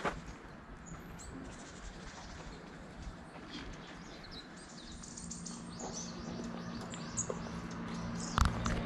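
Faint, scattered bird chirps over outdoor background noise. About halfway in, a low steady hum comes in and slowly grows louder, and there is a sharp knock near the end.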